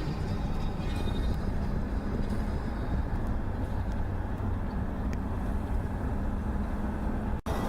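Car driving along a highway: a steady low road and engine rumble, cut off by a short break near the end.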